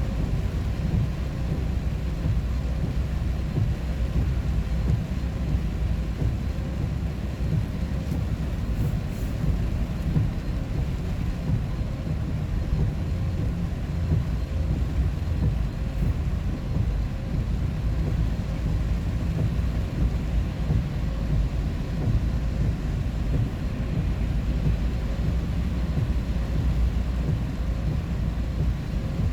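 Vehicle on the move: a steady low engine and road rumble.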